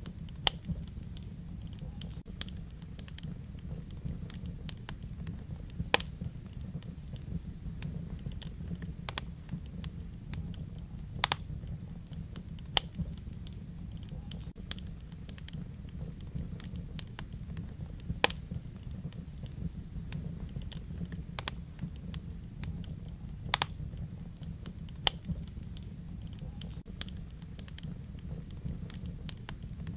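Wood fire burning in a fireplace: a steady low rumble of the flames with sharp crackles and pops at irregular intervals, a loud one every few seconds.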